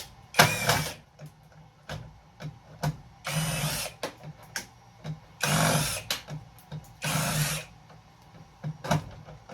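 Power drill backing out flathead screws in four short runs of about half a second each, with light clicks and taps in between.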